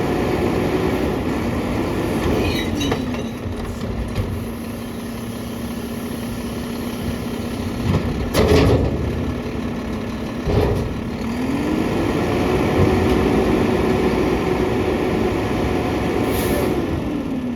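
Mack LR garbage truck's diesel engine speeding up and settling back as the McNeilus packer's hydraulics cycle. It is raised at first, drops to a lower speed about three seconds in, and speeds up again from about eleven seconds before dropping near the end. Two loud clunks come around the middle, and a short high hiss comes near the end.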